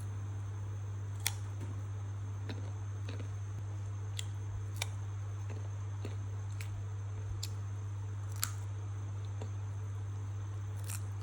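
Close-up chewing of crunchy raw young bottle gourd: a few sharp, scattered crunches and clicks, about six over the stretch, over a steady low hum.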